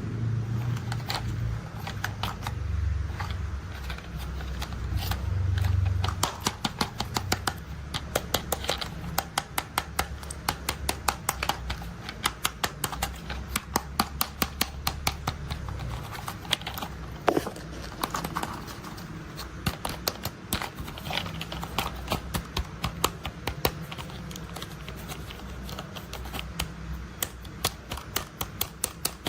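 Rapid, irregular clicking and tapping of small plastic toy parts being handled, several clicks a second, over a low hum that fades after about six seconds.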